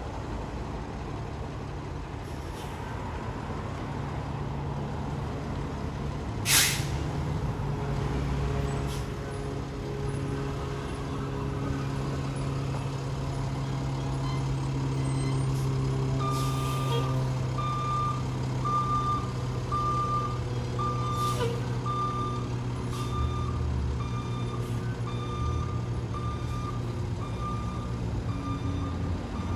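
Fire engine's diesel engine running steadily, with a loud short air-brake hiss about a quarter of the way in. From about halfway, a reversing alarm beeps about once a second as the rig backs up, with a couple more brief air hisses.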